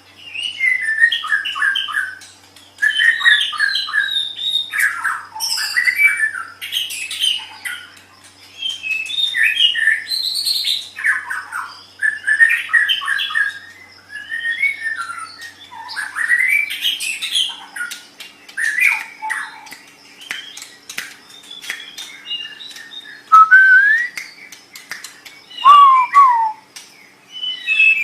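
White-rumped shama (murai batu) singing: a long run of varied phrases of quick chattering notes and trills, broken by short pauses, with a few clear whistled glides near the end.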